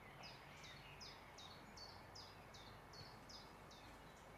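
Faint bird song: a series of about ten short, high notes, each dropping in pitch, repeated evenly at a little over two a second and stopping just before the end.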